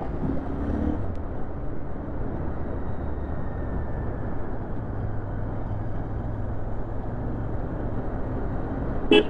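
Royal Enfield Interceptor 650's parallel-twin engine running steadily on the move, under wind and road noise, with a short sharp pitched sound near the end.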